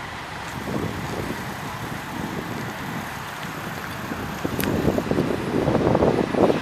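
LM-99K tram running along the track, its wheels knocking and clattering over the rails, louder in the last couple of seconds, with one sharp click about four and a half seconds in.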